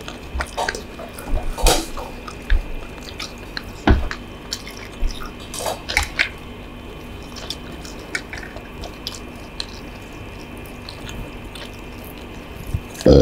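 Mouth sounds of someone eating stir-fried instant noodles: scattered wet clicks and smacks of chewing, thinning out after about six seconds.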